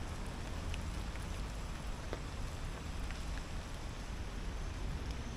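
Steady rain falling, with a few faint sharper drop ticks and a low rumble underneath.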